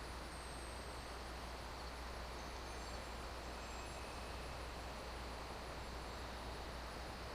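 Steady faint hiss with a low hum underneath and no distinct events: background noise.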